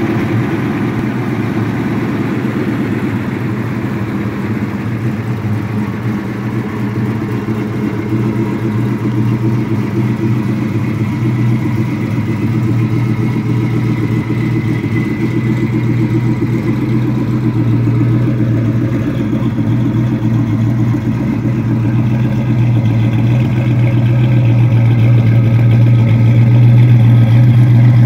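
1970 Mustang Mach 1's 351 Cleveland V8, fitted with Boss 302 heads and Holley Sniper fuel injection, idling steadily through its exhaust. It grows louder toward the end, near the tailpipes.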